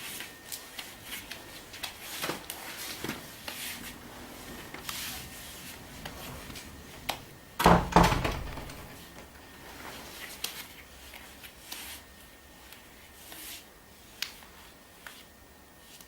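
Handling noise: scattered light clicks and rubbing, with one loud thump a little before halfway.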